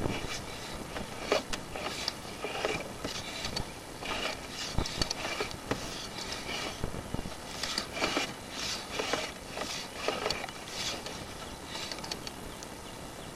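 Sewer inspection camera and its push cable working through a cast iron drain line: irregular scraping, rattling and clicks, with a sharp knock at the start and another about five seconds in.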